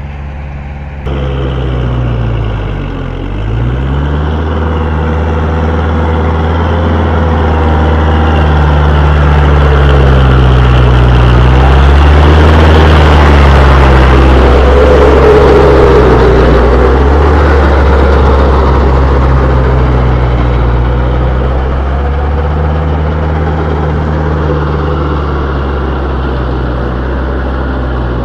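Kubota tractor's diesel engine working under load while pulling a rotavator through hard soil. The engine note dips briefly about three seconds in. The sound grows louder toward the middle and then eases off again.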